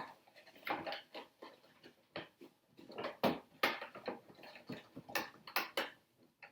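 Hard plastic RC truck body parts being handled and fitted onto the chassis: irregular clicks, taps and rattles of plastic on plastic.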